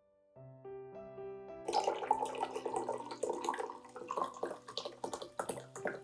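Soft piano background music, joined about a second and a half in by water running and splashing, with many small splashes over it.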